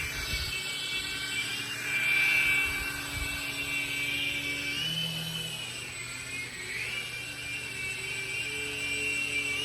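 Toy helicopter drone in flight: its small electric motors and rotor give a steady high whine that wavers in pitch, dipping and rising about halfway through, with a few low thumps near the start.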